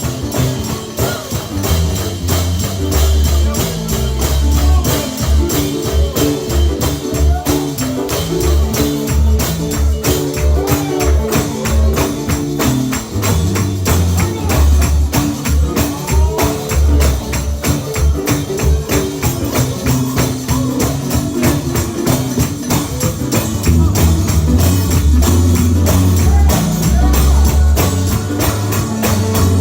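Live gospel music with a tambourine struck steadily on every beat over a deep bass line; the bass grows heavier near the end.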